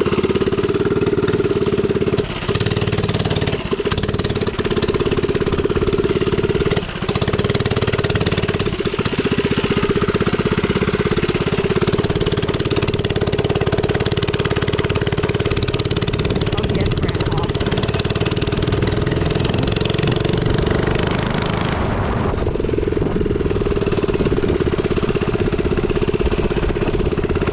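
Minibike's small engine running steadily, with a few brief dips in the sound in the first nine seconds.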